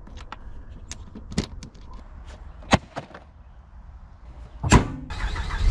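Scattered clicks and knocks of a car's engine air filter housing being clipped and fastened shut after a filter change, with the loudest knock near the end. A steady low noise sets in just before the end.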